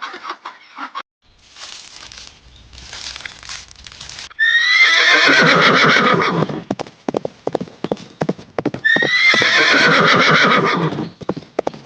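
A horse whinnying twice, each call about two seconds long and starting high then falling, with fast hoof clip-clops between and after the calls.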